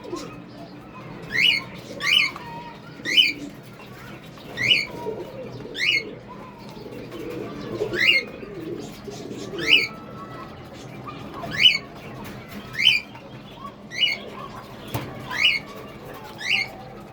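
Caged pet birds calling: a short, sharp, high chirp repeats every second or two, with low pigeon cooing underneath.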